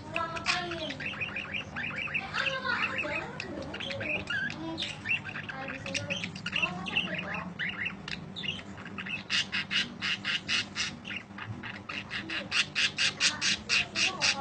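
Budgerigar chattering and squawking, breaking into a fast run of sharp, evenly repeated chirps about nine seconds in that grows louder toward the end.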